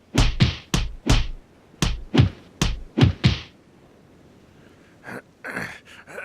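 Fight-scene punch sound effects: a rapid run of about nine heavy thumping hits, then a pause and a few softer hits near the end.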